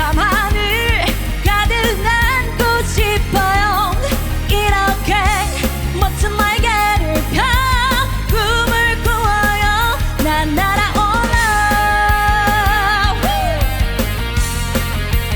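Rock band music with a steady drum beat and bass under a wordless lead melody wavering with vibrato, with one long held note near the end.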